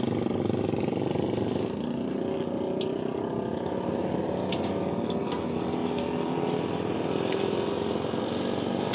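Suzuki GSX-R150's single-cylinder engine running steadily at low revs as the motorcycle rolls along at walking pace.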